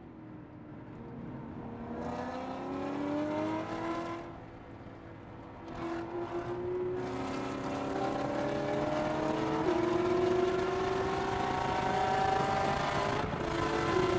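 Porsche 911 GT3 RS flat-six engine from inside the cabin, pulling hard with its pitch climbing. It eases off briefly about four seconds in, then picks up again, with two upshifts where the pitch drops suddenly: one about ten seconds in and one near the end.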